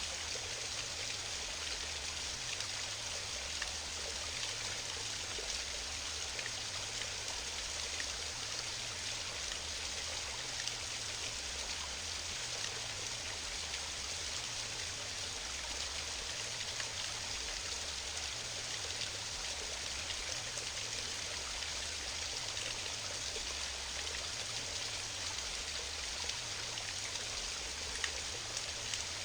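Small mountain waterfall: water cascading and splashing in a steady rush, with a low, uneven rumble underneath.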